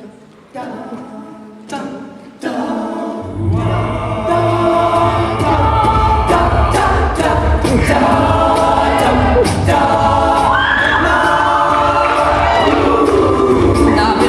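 A cappella vocal group singing: voices come in one after another over the first couple of seconds, and a deep bass part with a steady pulse joins about three seconds in, under several harmonising voices.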